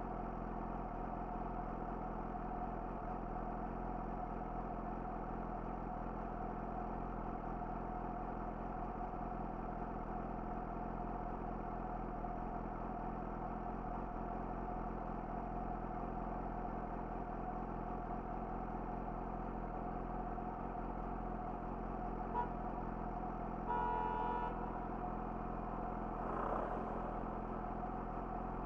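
Yamaha YZF-R6's inline-four engine idling steadily through an Akrapovic slip-on exhaust, its note unchanging throughout. A short vehicle horn honk sounds about 24 seconds in.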